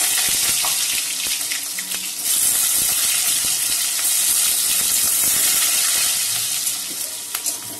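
Cauliflower stalks sizzling in hot mustard oil in a wok, a loud, steady hiss that dips briefly about a second in and eases off near the end.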